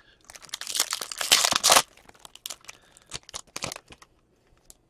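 A foil hockey card pack being torn open and its wrapper crinkled: a loud burst lasting about a second and a half, followed by lighter rustling and a few clicks.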